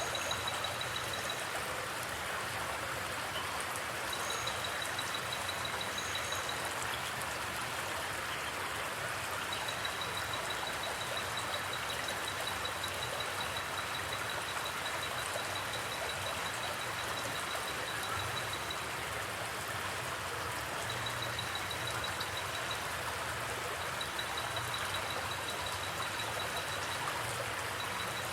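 Steady rushing and burbling of a flowing forest creek. A high, fast-pulsing chirr comes and goes above the water in stretches of a few seconds.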